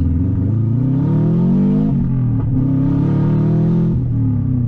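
Turbocharged Subaru flat-four breathing through a 3-inch catless open downpipe and no further exhaust, loud and raspy, revving up under acceleration for about two seconds. Its pitch briefly breaks about halfway, then holds and eases down near the end.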